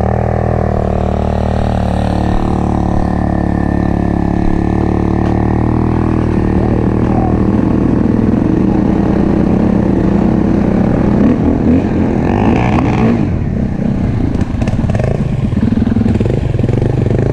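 Enduro motorcycle engine running, steady at first, then rising and falling in pitch from about seven seconds in.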